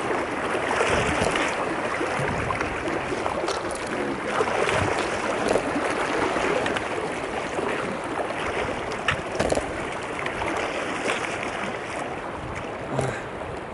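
River water rushing steadily around a wading hiker, with small splashes here and there.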